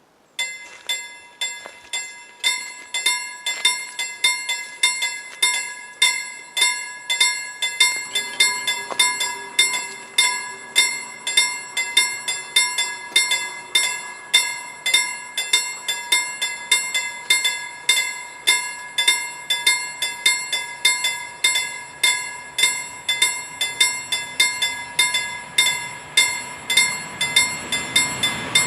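Railway level crossing warning bell ringing with evenly repeated strikes, about two a second, starting about half a second in: the crossing warning for an approaching train. A low rumble joins from about a third of the way in, and the approaching train's noise rises near the end.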